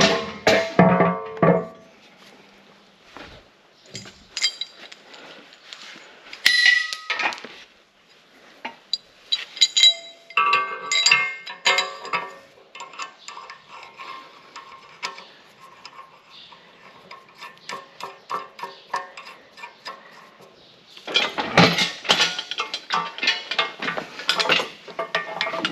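Metal parts and tools clanking and clinking, with scattered sharp knocks, some left ringing briefly. The clatter gets busier near the end.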